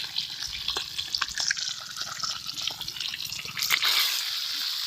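Catfish frying in hot oil, spattering and crackling steadily, with a louder swell of spattering about four seconds in.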